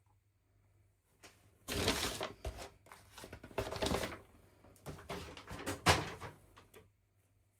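Toy packaging being handled and opened: a few seconds of rustling, scraping and light knocks, loudest in three surges, starting about two seconds in and stopping near the end.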